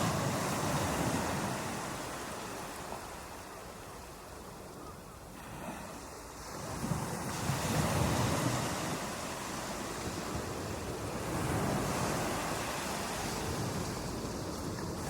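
Ocean waves breaking on a beach, a steady wash of surf that swells and ebbs: loud at first, easing off mid-way, then building again with the next waves.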